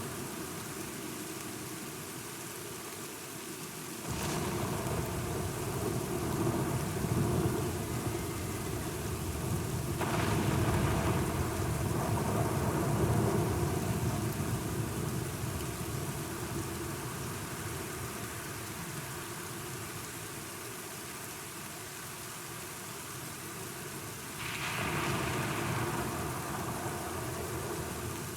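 Steady rain with rolling thunder. A low rumble comes in suddenly about four seconds in, swells again around ten seconds in, and a shorter swell comes near the end.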